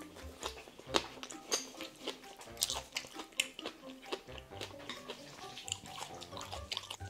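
Wet chewing and mouth clicks of someone eating spicy noodles and green onion kimchi, over soft background music.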